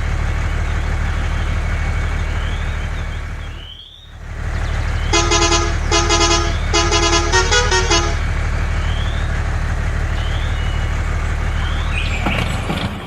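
Steady low drone of a truck engine, which dips briefly about four seconds in. A musical vehicle horn plays a short tune of four quick blasts of changing pitch from about five to eight seconds in.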